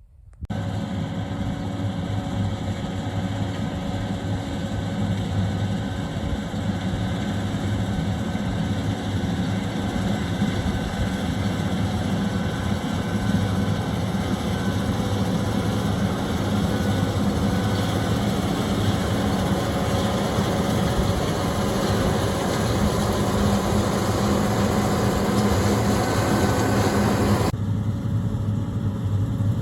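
Combine harvester running steadily while cutting soybeans. The higher part of the sound drops away suddenly a couple of seconds before the end.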